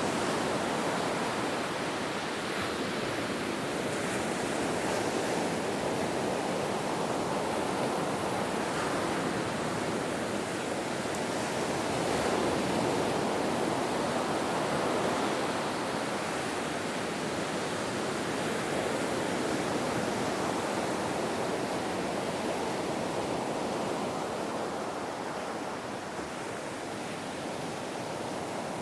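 Ocean surf washing on a shore as a continuous rush of noise, swelling and easing gently in loudness without distinct breaking crashes.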